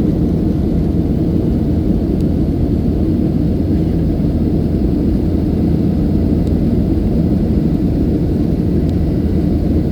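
Airplane cabin noise: a steady low rumble of engines and rushing air.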